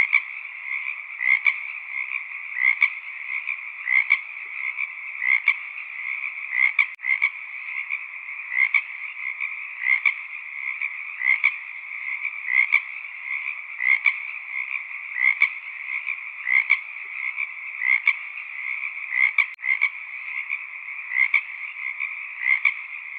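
A dense frog chorus, calling steadily. Louder single calls stand out at a regular beat, about every two-thirds of a second, over a continuous high trilling din.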